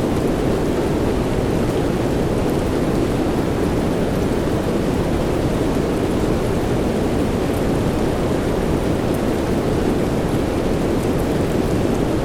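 Steady soft rain blended with white noise: a deep, even hiss that does not change, with a few faint drop ticks now and then.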